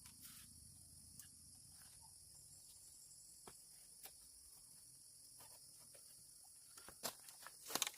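Faint, steady, high-pitched chorus of insects such as crickets, with scattered light clicks and knocks, more of them and louder near the end.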